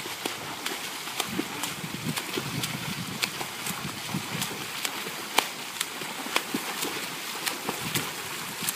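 Irregular sharp taps, two or three a second, of raindrops striking the camera, over a steady hiss of rain falling on the pool.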